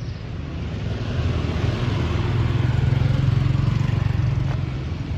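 A motor vehicle running close by: a low engine rumble that swells about two to three seconds in, then eases off.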